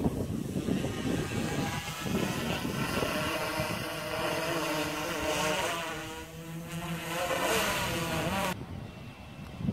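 Multi-rotor drone's propellers buzzing, the pitch wavering as it manoeuvres, with wind on the microphone. The buzz cuts off abruptly near the end.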